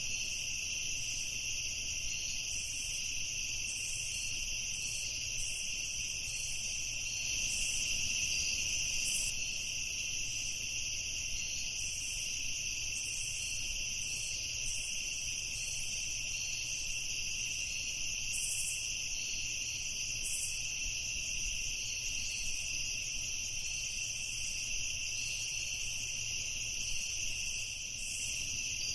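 Steady night chorus of crickets, a continuous high trill in two pitches with no pause, with short irregular chirps sounding above it.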